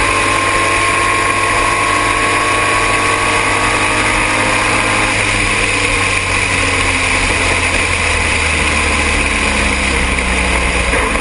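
Triumph TR6 race car's straight-six engine running hard and steady, with heavy wind and road noise.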